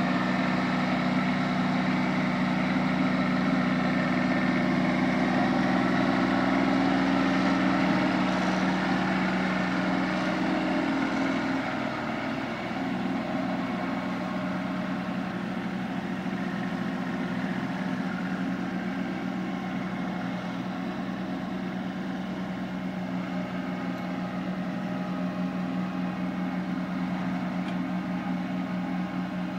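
Kubota B2320 compact tractor's three-cylinder diesel engine running steadily; about twelve seconds in its note drops slightly and it gets a little quieter.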